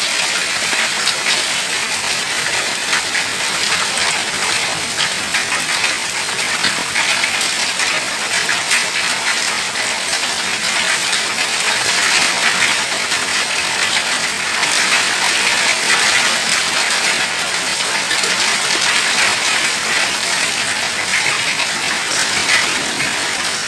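Hailstones pelting hard surfaces in a heavy, steady clatter of countless small impacts, mixed with the hiss of rain.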